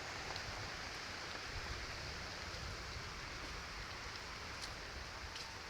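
Steady hiss of rain falling, with an uneven low rumble underneath.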